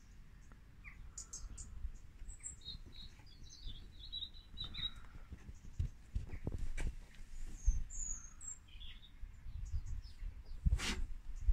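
Birds chirping on and off over a low rumble with scattered small knocks, and one sharp click near the end.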